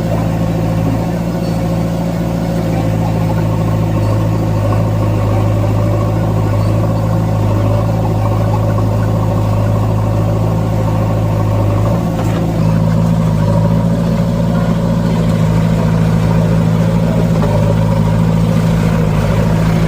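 Sonalika DI 47 RX tractor's diesel engine running steadily. About twelve seconds in, its note shifts and gets a little louder.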